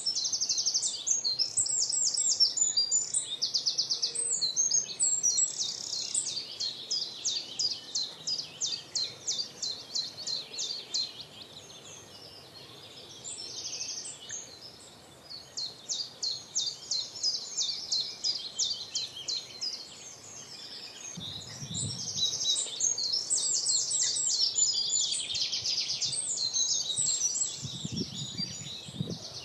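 Birdsong: long runs of rapid, high chirping notes that pause briefly and start again.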